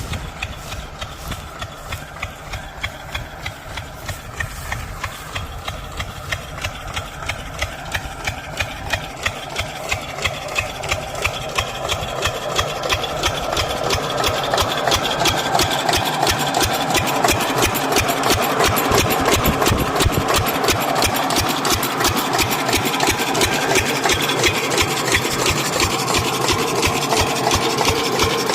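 10 hp single-cylinder diesel irrigation engine running, each firing beat heard separately as a chug. About halfway through it picks up speed and grows louder, then runs steadily at the higher speed.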